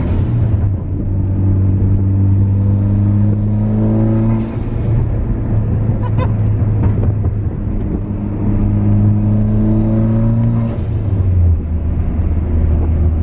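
Modified car engine heard from inside the cabin, pulling hard through the gears on E85. Its pitch climbs steadily, then drops at a gearchange about four seconds in and again near the end.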